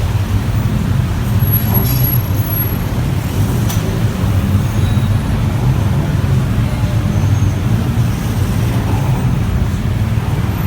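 Steady low rumble of road traffic heard from a moving motorbike, the bike and surrounding vehicles running together without a break.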